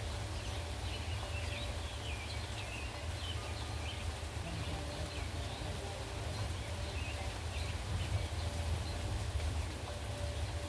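Small birds chirping in short, repeated calls over a steady low rumble of wind.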